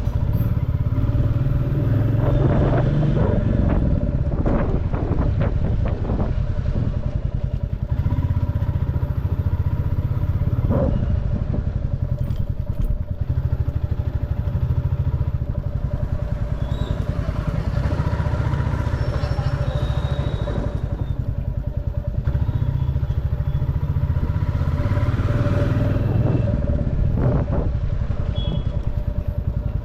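Motorcycle engine running steadily at low speed through street traffic, with a few knocks and clicks from the road.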